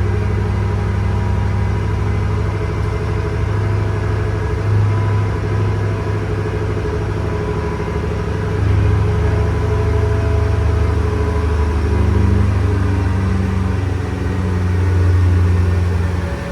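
Shelby Super Snake's supercharged V8 idling steadily just after a cold start, with small rises and dips in engine speed a few times.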